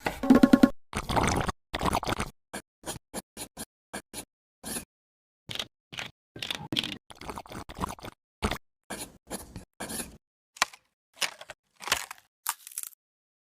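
Budgerigars cracking seeds: an irregular run of short, sharp cracks and crunches, with a brief pitched sound near the start.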